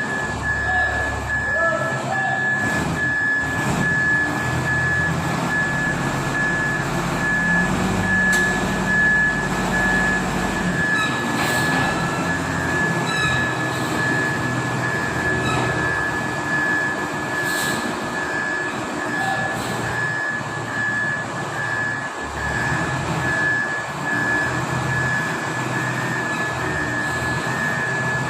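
Compact wheel loader's turbocharged diesel engine running, its pitch shifting for a few seconds partway through, with a steady high whine.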